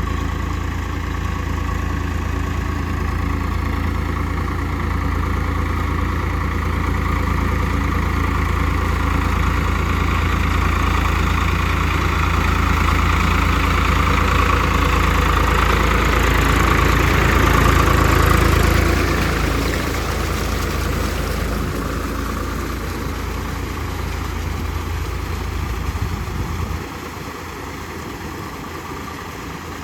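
Swaraj 744 FE tractor's three-cylinder diesel engine running steadily. It grows louder for the first two-thirds, then fades, dropping off sharply a few seconds before the end.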